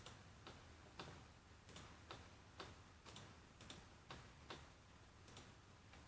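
Faint computer mouse clicks, a little over two a second at slightly uneven intervals, over a low background hum.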